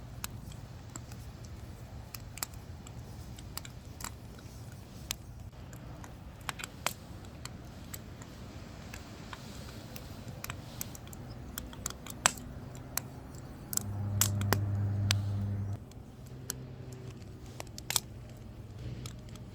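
Firewood burning, crackling with irregular sharp pops and clicks over a steady low hum. About two-thirds of the way in, a louder low droning hum comes in for about two seconds.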